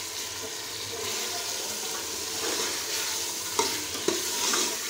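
Chicken and spices frying in ghee with a steady sizzle while a steel ladle stirs and scrapes them around a metal pressure-cooker pot. The ladle knocks sharply against the pot twice, about three and a half and four seconds in. The masala is being fried (bhuna) into the chicken.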